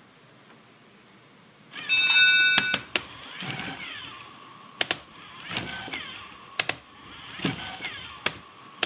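Small electric motors of a fischertechnik walking robot start up and run, whining up and down, with sharp clicks and rattles about once a second as the legs step.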